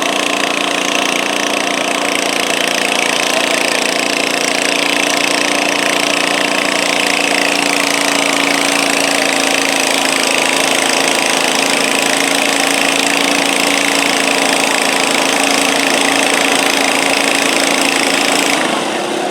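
Stock garden tractor engine running steadily under full load, dragging the pulling sled. Near the end it drops in level and its pitch changes as the pull ends.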